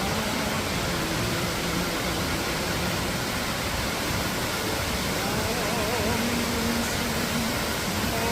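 Steady rush of water in a mountain valley stream, an even, unbroken noise. A faint voice singing with vibrato comes in underneath about five seconds in.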